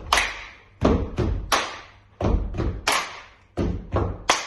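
A steady rhythm of sharp percussive thumps in groups of three, a new group about every second and a half, with no voice over it.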